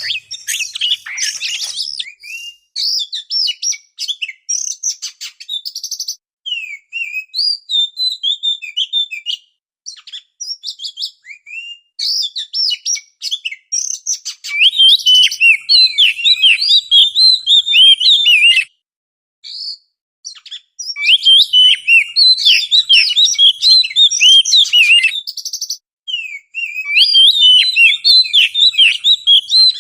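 Oriental magpie-robin (kacer) singing: fast runs of sharp, varied chirps and whistles in bursts with short pauses, louder from about halfway through.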